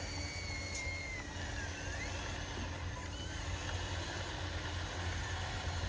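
Small RC truck motors running, with a faint high whine that falls and then rises in pitch about two seconds in, over a steady low hum.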